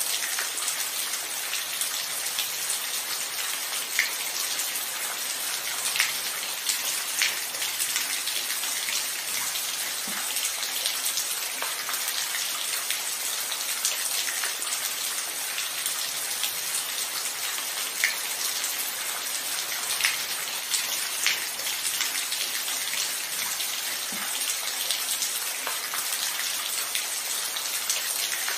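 Steady rain falling, an even hiss, with now and then a single louder drop striking close by.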